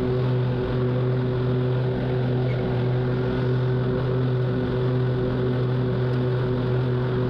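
Zero-turn lawn mower's engine running at a steady speed, an even hum with no change in pitch.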